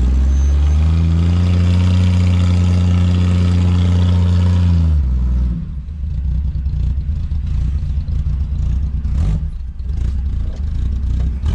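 Plymouth Duster's slant-six engine, breathing through a temporary exhaust with a cherry-bomb-style muffler, revved up and held at high revs for about four seconds in a burnout attempt that does not break the tyres loose. About five seconds in, the revs drop suddenly and the engine falls back to a lower, uneven rumble.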